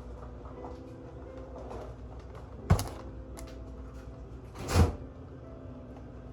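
Two sudden thuds about two seconds apart, the second slightly longer, over faint background music.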